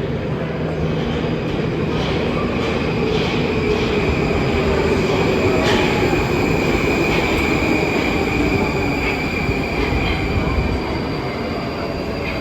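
Moscow Metro train running on the rails at speed, with a steady high-pitched wheel squeal over the rumble and a few light clicks in the first half.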